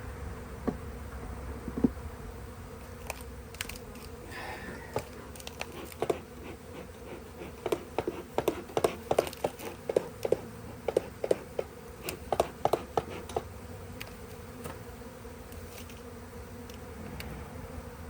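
Honey bees buzzing steadily around an opened hive. Through the middle comes a run of sharp clicks and knocks as wooden hive frames are lifted and set into a new box.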